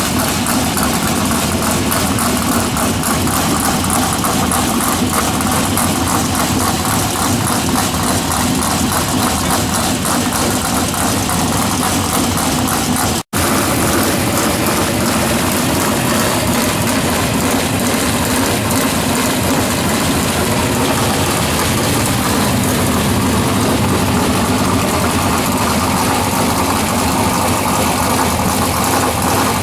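Several USAC race cars' engines running together in a loud, continuous din. The sound cuts out for an instant about 13 seconds in, then carries on unchanged.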